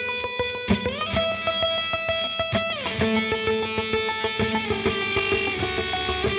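Live rock-electronic instrumental music led by electric guitar. A held note slides up about a second in and slides back down near 3 s, over a steady percussive beat.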